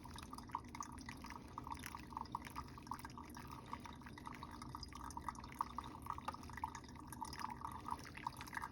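Brewed coffee dripping through a metal filter into a Chemex carafe: irregular small drips, several a second. The drawdown is slow, which the brewer puts down to grounds ground too fine.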